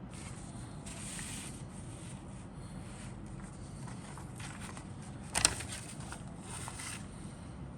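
Rustling and rubbing of model kit parts and packaging being handled, with one sharp click about five and a half seconds in.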